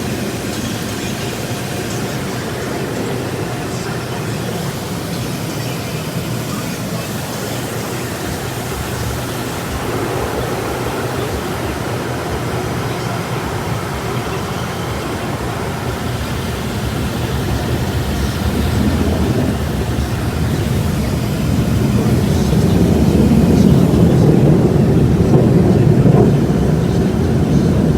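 Automatic car wash heard from inside the car: a steady rushing noise of spray and machinery that grows louder over the last ten seconds.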